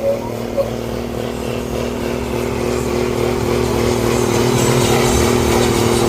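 A truck engine running steadily at constant revs, a little louder in the second half.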